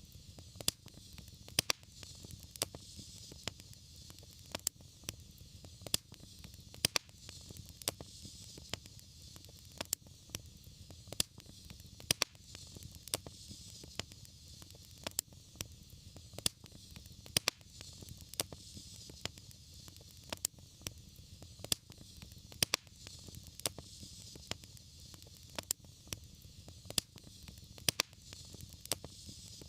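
Wood fire burning in a fireplace: irregular sharp crackles and pops, a few each second, over a steady soft hiss.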